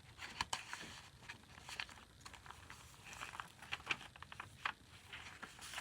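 Faint rustling and light, irregular clicks of paper and card being handled: a large tag being taken from a paper envelope in a handmade junk journal.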